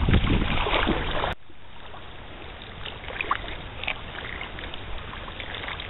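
Wind and water noise on the microphone during a kayak outing, cutting off abruptly about a second in to a quieter, steady outdoor background with a few faint, short high chirps.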